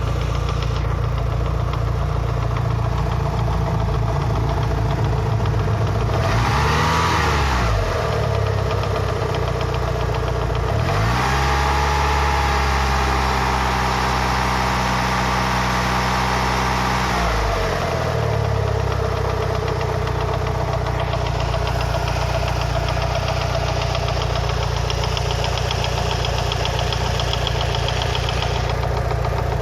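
Mitsubishi Lancer Evolution VI's 4G63T turbocharged four-cylinder engine idling with a clearly audible knock, during warm-up; it is blipped briefly about seven seconds in, then held at higher revs for about six seconds before dropping back to idle. The owner places the knock at the top end and suspects piston slap or an upper rod bearing, since bleeding the lash adjusters did not help.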